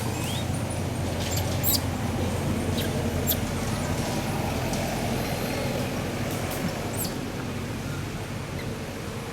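A steady low rumble, like distant traffic or wind, with a few brief high-pitched squeaks over it.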